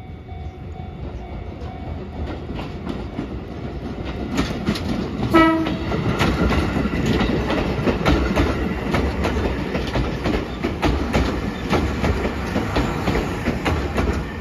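Chichibu Railway electric train approaching and passing close by, its wheels clacking over the rail joints and growing louder as it nears. A short horn blast sounds about five seconds in.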